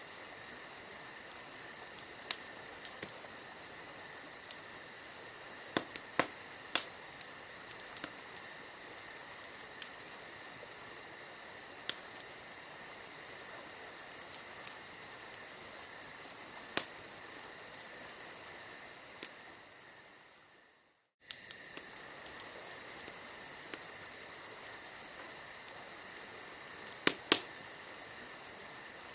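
Campfire burning with scattered sharp crackles and pops, over a steady high chorus of crickets chirping. About twenty seconds in, the sound fades out to silence and then comes back abruptly.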